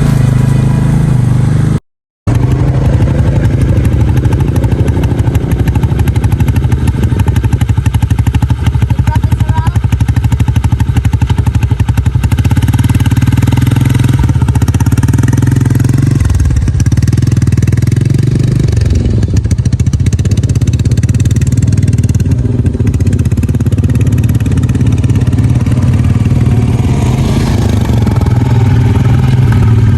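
An ATV engine running steadily while riding, a low drone that rises and falls a little in pitch. The sound drops out completely for a moment about two seconds in.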